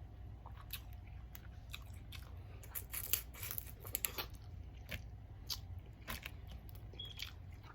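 Close-miked eating from a seafood boil: irregular crunches, clicks and mouth sounds of biting and chewing, thickest about halfway through, over a steady low hum.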